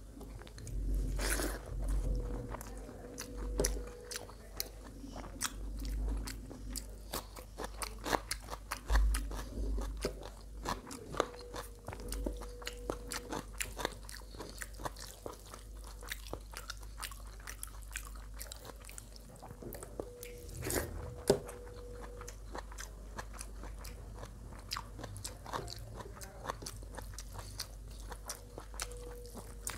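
A person chewing and crunching a mouthful of food close to the microphone, with many quick wet mouth clicks and occasional heavier bites.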